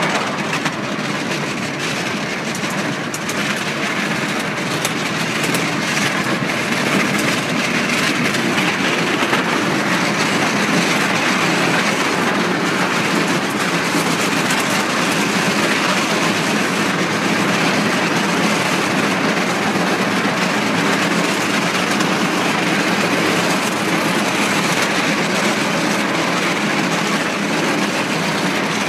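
A 10¼-inch-gauge miniature railway train running along its track, a steady rolling rumble and rattle of wheels on rails with no let-up.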